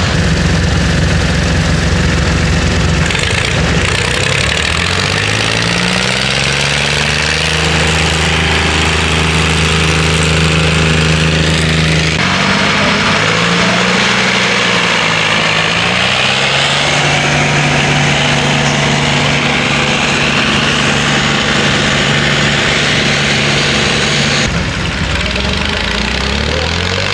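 Tractor-pulling engines running hard under load, the engine pitch climbing and then holding at high revs. The sound changes abruptly a few times, at edits between different pulls.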